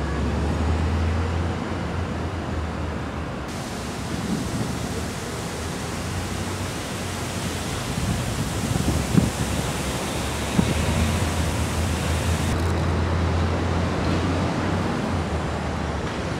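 Steady rushing outdoor noise with a low rumble, brighter and hissier through the middle, and two short knocks about halfway through.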